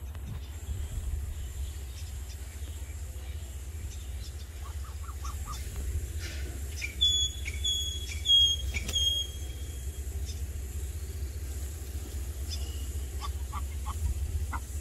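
A bird gives four high, short chirps in quick succession about halfway through, over a steady low rumble; quieter short calls come in small groups before and after.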